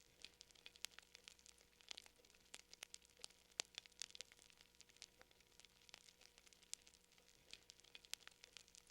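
Fire crackling faintly: irregular sharp pops and snaps, several a second, over a low hiss.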